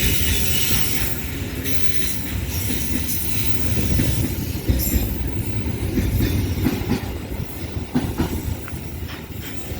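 Train running on the rails: a steady low rumble, with a few sharp wheel knocks over rail joints from about halfway through.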